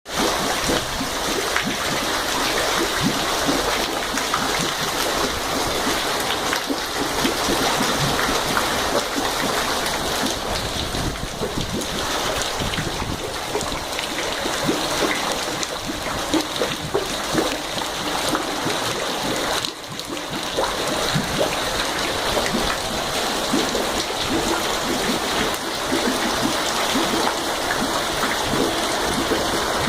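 Storm runoff water pouring out of street storm drains during a heavy downpour, a steady rushing of water mixed with the patter of rain.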